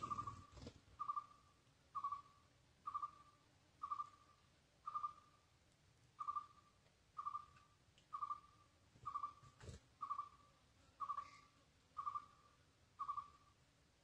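A bird's short hooting call, one note at the same pitch repeated steadily about once a second, with a light rustle at the start and a single sharp click about two-thirds of the way through.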